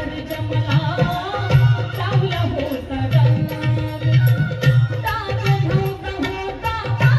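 Marathi devotional folk music: a hand drum keeps a steady beat, about two strokes a second, under a wavering, gliding melody line.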